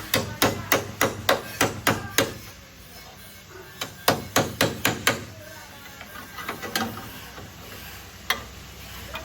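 Hammer blows on car body sheet metal during dent repair: a quick run of about eight strikes, about three a second, then a pause, a second run of about six, and a few scattered lighter taps.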